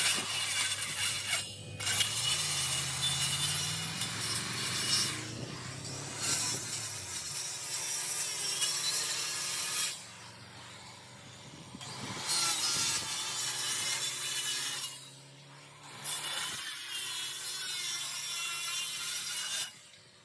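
A saw cutting into an old wooden wall in about five runs of a few seconds each, with short pauses between them.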